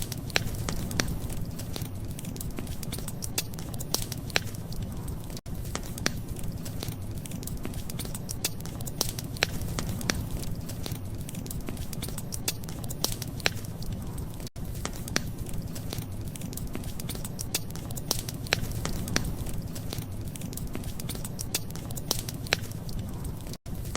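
Wood fire crackling, with frequent sharp pops over a steady low rumble. The sound drops out for an instant three times.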